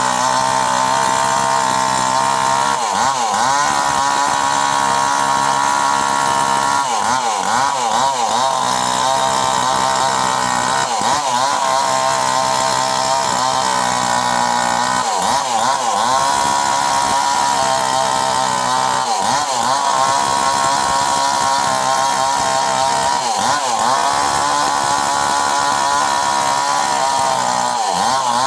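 Mini chainsaw running continuously, its pitch dipping briefly and recovering about every four seconds.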